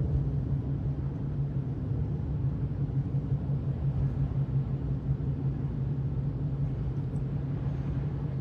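Steady road noise inside a moving car: a low, even drone of engine and tyres running on a slushy, snow-covered road.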